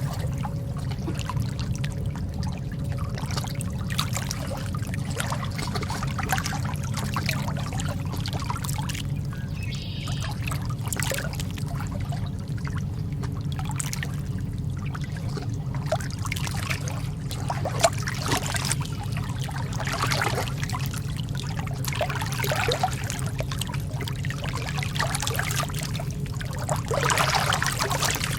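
Lake water lapping and trickling in small, irregular splashes over a steady low rumble.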